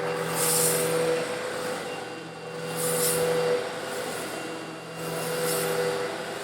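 Eureka vacuum cleaner running with a steady motor hum while sucking up coarse stone granules. A rushing, gritty hiss swells three times as the granules are drawn into the nozzle.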